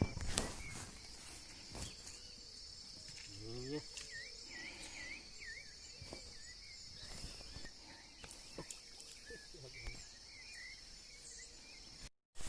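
Steady high chirring of crickets and other insects, with repeated short chirps over it. A sharp knock comes right at the start, and a few faint clicks follow.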